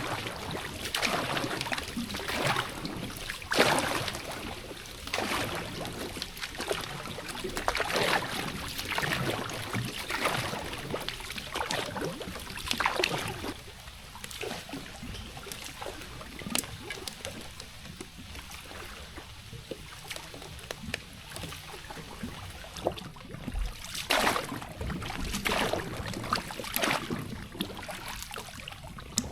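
Water splashing and sloshing in repeated strokes every second or two, with trickling water between them; the splashes thin out for a stretch in the middle and pick up again near the end.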